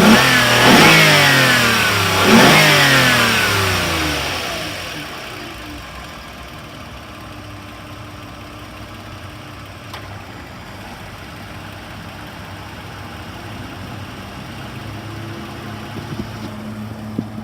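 A warm 2007 Toyota Sienna's 2GR-FE 3.5-litre V6 is blipped sharply a couple of times in the first three seconds. The revs then fall away and it settles to a steady idle about five seconds in.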